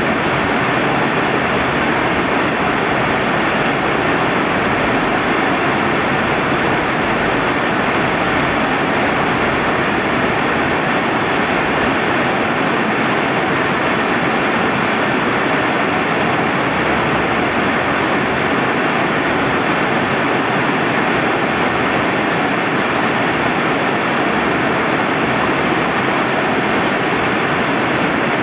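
Steady rain falling by a river, with running water: an even, unbroken hiss with no individual drops or changes standing out.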